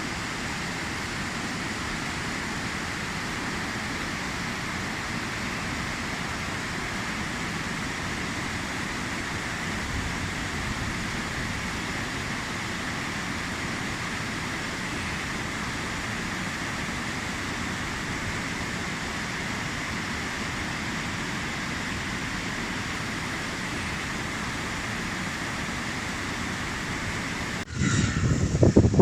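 Steady rush of fast-flowing river water, an even noise with no breaks. About a second and a half before the end it changes abruptly to a louder, gusting sound with wind buffeting the microphone.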